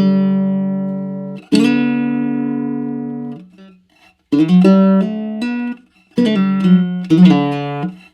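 Baritone ukulele with an ancient Sitka spruce top and pernambuco back and sides, strummed and plucked in an improvised passage with no audio effects. Chords are struck and left to ring out and fade, with short breaks between phrases.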